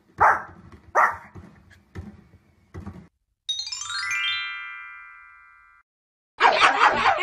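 A dog barks about once a second, four times. Then a short musical sting plays: a fast falling run of chime tones that rings on and fades out. Near the end a second dog starts yapping rapidly.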